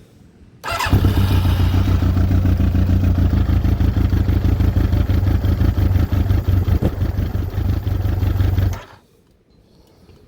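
Yamaha YZF1000R Thunderace's carburetted inline-four engine catching about half a second in and running steadily with a fast, even beat for about eight seconds, then cutting out suddenly. It is running with the choke off on freshly cleaned carbs and still needs a bit of choke.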